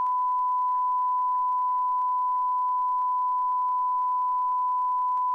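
One unbroken electronic beep: a steady, pure, high-pitched tone held at a constant level, like a test tone or a censor bleep.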